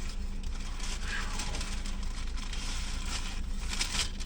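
Steady low mechanical hum with faint crackling rustles over it.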